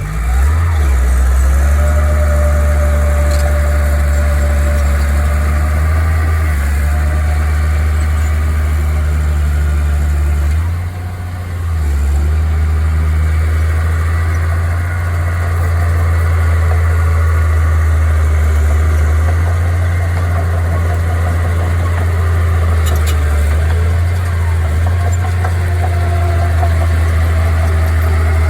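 Heavy diesel engine of a bulldozer or truck running steadily, with a brief dip in level about eleven seconds in.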